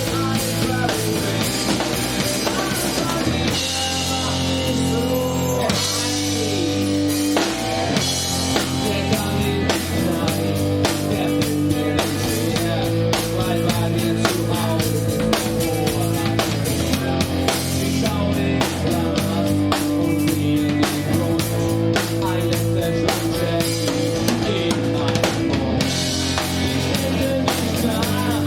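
Live rock band playing, with drum kit and electric guitars over a steady beat.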